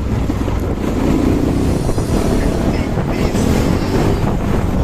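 Bajaj Pulsar NS200's single-cylinder engine and exhaust running steadily while riding, with wind buffeting the microphone.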